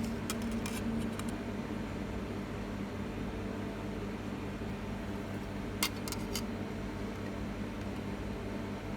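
Steady mechanical hum from a small motor or fan, with a few light clicks about a second in and a sharper cluster of clicks near the middle.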